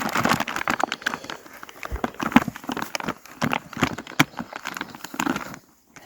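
Pack mules and horses eating grain, with irregular crunching and rustling of the feed and sack that thins out near the end.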